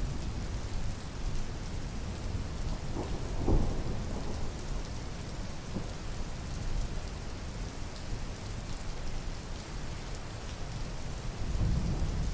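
Steady rain falling, an even hiss with a low rumble that swells near the end.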